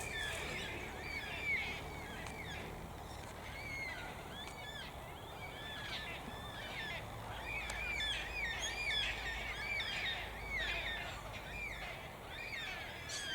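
A flock of yellow-tailed black cockatoos calling, many short calls overlapping, busiest in the middle.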